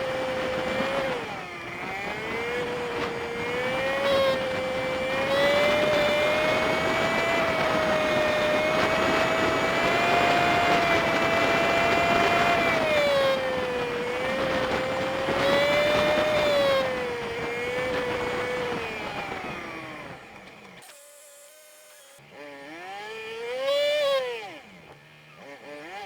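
Honda Super Cub 50's small single-cylinder engine and road wind in dashcam audio sped up fivefold, so the engine note is a high, wavering whine that rises and falls with the throttle. About twenty seconds in it drops away as the bike slows and idles, then gives a couple of quick rising-and-falling revs as it pulls off again.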